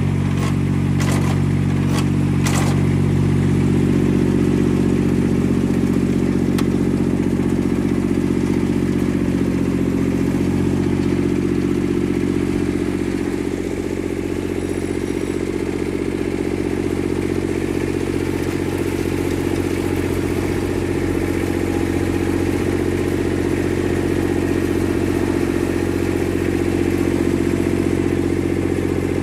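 Yanase IZ-Y11-17HD snow blower's three-cylinder diesel engine running at a steady speed, with a few light knocks in the first three seconds.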